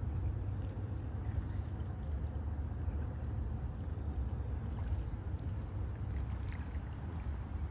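Canoe being paddled on a lake: a steady low rumble with faint ticks and splashes of water.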